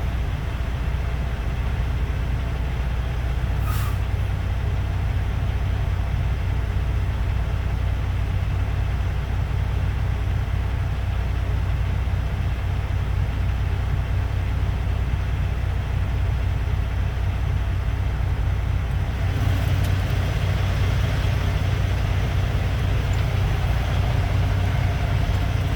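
Semi truck's diesel engine idling with a steady low rumble, growing slightly louder about two-thirds of the way in. A brief sharp hiss about four seconds in.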